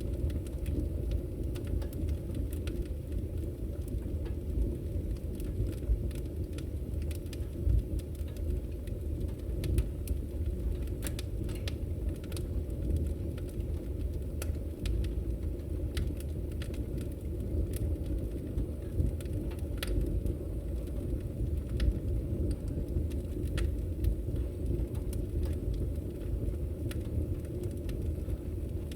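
Wood fire burning: a steady low rumble of the flames with frequent, irregular sharp crackles and pops.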